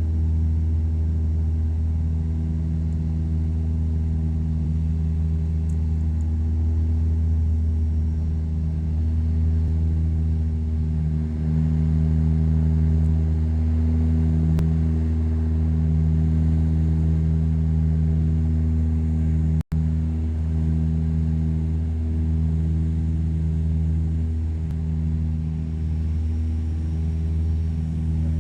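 Steady drone of a de Havilland DHC-8-300's twin turboprop engines and propellers heard inside the passenger cabin: a low hum made of several steady tones that beat slightly. About two-thirds of the way through the sound cuts out for an instant.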